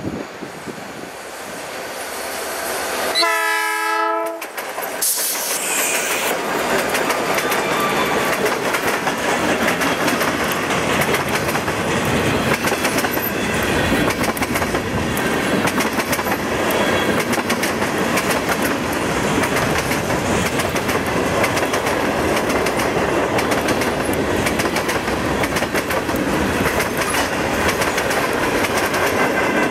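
Diesel freight train approaching, its locomotive horn giving one short blast of about a second. The train then passes close by, a long line of tank cars rolling past with steady wheel rumble and rapid clicking over the rail joints.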